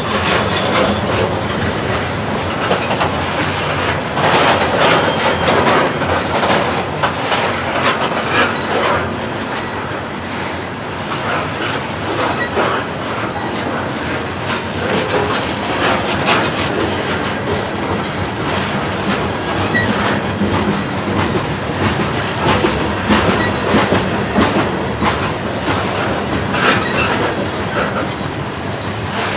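Loaded coal cars of a long freight train rolling past close by: a steady rumble of steel wheels on rail with repeated clacking as the wheels cross rail joints.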